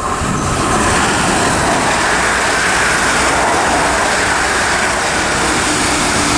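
A pair of Class 450 Desiro electric multiple units passing through the station, a loud steady noise of wheels on rails and train running gear without pause.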